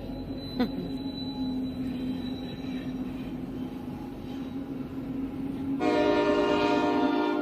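Train approaching with a steady low drone, then the locomotive's horn sounds one long blast about six seconds in.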